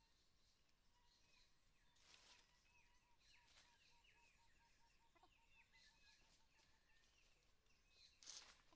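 Near silence with faint bird calls: short falling chirps and a soft run of quick, evenly spaced notes at about four a second, with a brief noise burst near the end.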